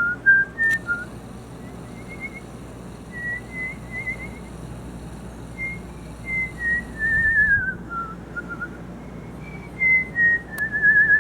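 Clear whistling: a string of short, pure notes gliding up and down, with warbling trills in between.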